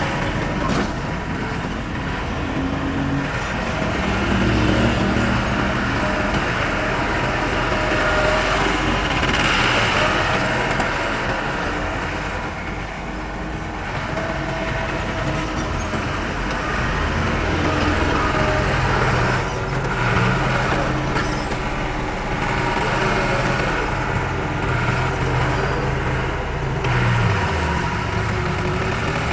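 Diesel engines of heavy earthmoving machinery working, a dump truck or bulldozer, with the engine pitch rising and falling under changing load.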